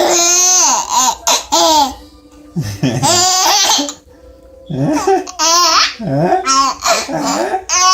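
A baby laughing in high-pitched squeals, in three bouts with short pauses between them.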